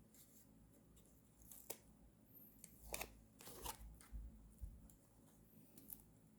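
Faint snips of scissors cutting paper, a few short sharp cuts between about one and a half and five seconds in.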